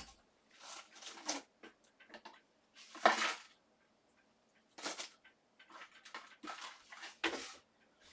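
Stackable craft storage buckets being fetched and handled: an irregular string of short scrapes, rustles and clatters, the loudest about three seconds in.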